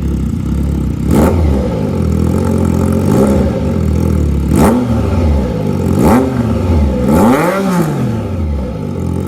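Triumph Trident 660's inline three-cylinder engine through a full aftermarket exhaust, idling and then blipped about five times, each rev rising sharply and falling back toward idle.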